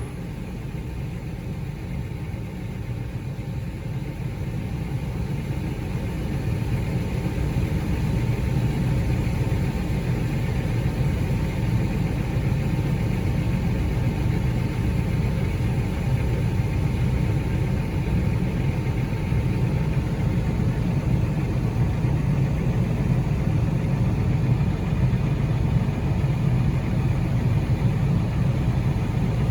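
A vehicle engine running steadily with a deep rumble, growing louder over the first several seconds and then holding steady.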